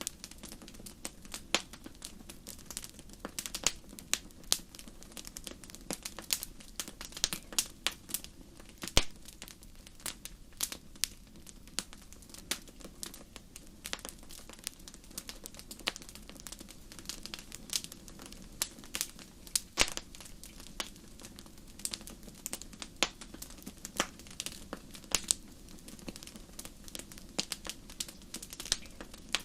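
Wood fire in a fireplace crackling: irregular sharp pops and snaps, several a second, over a steady low rumble of the flames, with one louder pop about nine seconds in.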